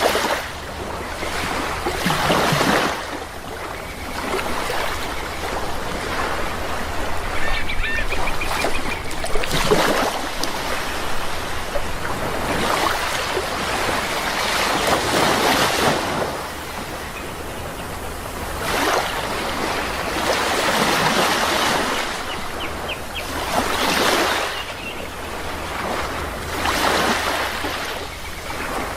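Sea waves washing in and breaking in repeated surges every few seconds. Short bird calls sound twice among them.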